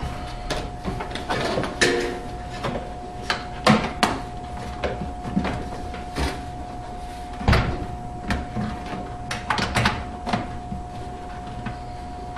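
Irregular knocks and clicks of hands handling a dishwasher door and tub while pressing a new rubber door gasket into its channel, over a faint steady tone.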